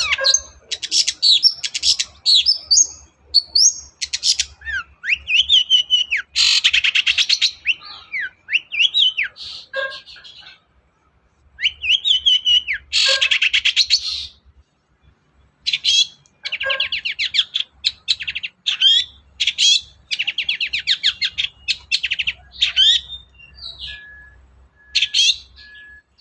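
Long-tailed shrike (cendet) singing a loud, varied song of fast chattering trills, rising and falling whistles and harsh notes, mixing in imitations of other birds. The song breaks off briefly about ten seconds in, and a few short, even piping notes sound near the end.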